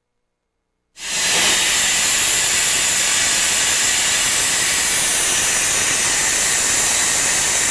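Steam hissing steadily and loudly, a high, even hiss that starts suddenly about a second in.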